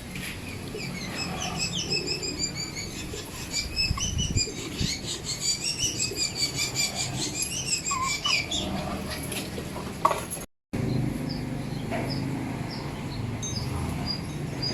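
Birds chirping and calling: a dense run of quick, high, repeated chirps that thins out about nine seconds in. After a brief dropout only scattered chirps remain.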